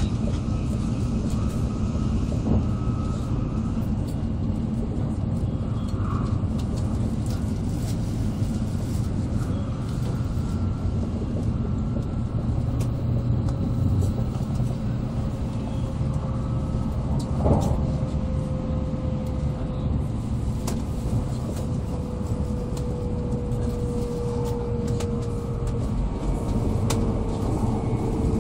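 Steady rumble of an N700A Shinkansen train running, heard from inside the passenger cabin, with a faint whine that slowly falls in pitch over the second half.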